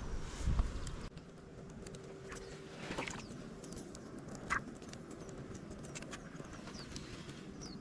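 Short, high chirps repeated over a steady outdoor hiss, with a dull thump about half a second in and two sharp knocks around the middle.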